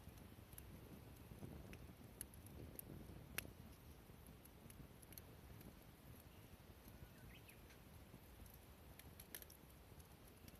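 Near silence: faint outdoor ambience with a few scattered small clicks and ticks, one sharper than the rest about three seconds in, and a faint short chirp past the middle.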